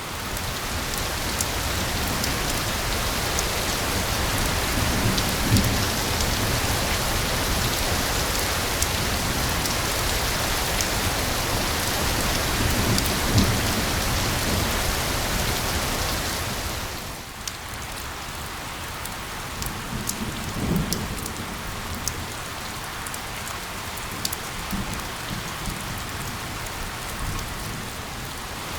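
Steady rain with scattered individual drop taps, heavier for the first two-thirds and then easing to a softer patter about seventeen seconds in. A few low rumbles of thunder come and go under it.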